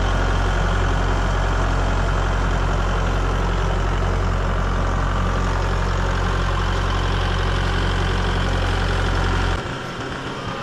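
A large engine running steadily with a deep, even hum, which drops away suddenly about nine and a half seconds in.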